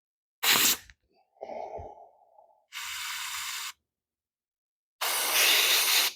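A man's breaths close to the microphone: a short sharp one about half a second in, a fainter one, a steady hiss around three seconds, and a long loud exhale about five seconds in.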